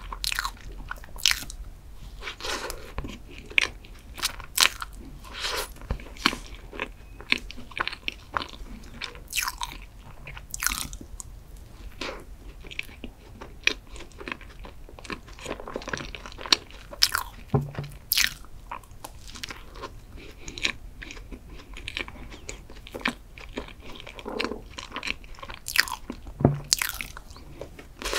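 Close-miked chewing and biting of a cream-filled chocolate muffin, with many sharp, wet clicks and smacks of the mouth.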